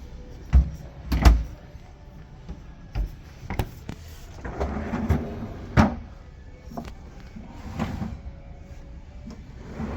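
A GE refrigerator making irregular sharp knocks and clunks, about five in all, with short swells of rushing noise between them.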